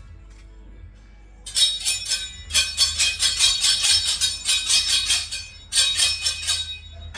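Rapid, rhythmic metallic jingling and clinking, starting about a second and a half in, with a short break near the end.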